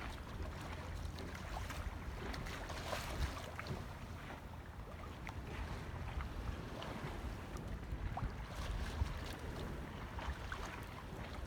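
Wind buffeting the microphone on a sailing boat under way, a steady rumble with the hiss of water and scattered small splashes and knocks.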